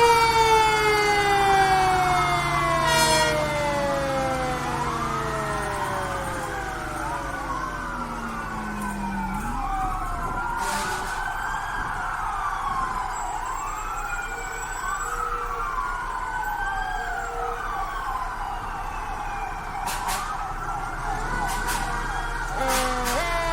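Fire truck sirens: one siren winds down in a long falling tone over the first several seconds while several other wailing sirens rise and fall, overlapping one another, over the truck's steady engine rumble. Near the end a siren winds up sharply again.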